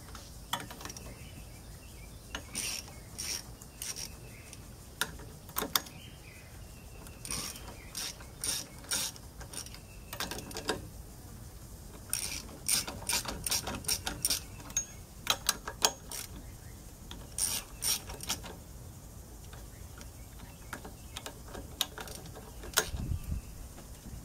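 Hand ratchet wrench clicking in short rapid runs with pauses between, as bolts are worked loose. A low thump near the end.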